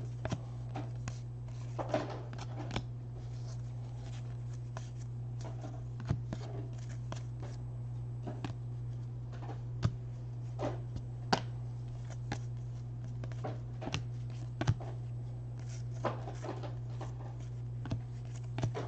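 Baseball trading cards being handled by hand, sorted and flipped through, giving soft scattered clicks and rustles over a steady low hum.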